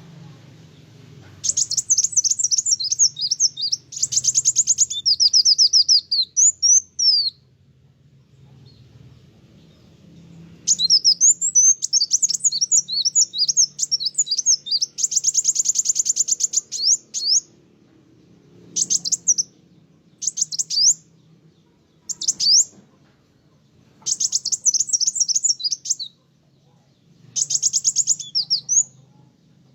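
Kolibri wulung sunbird singing in phrases of rapid, high-pitched twittering trills, with short pauses between phrases and a longer one early on.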